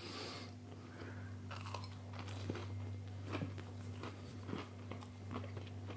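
Close-up chewing of a breaded fish nugget, soft crunches and mouth clicks, over a steady low hum.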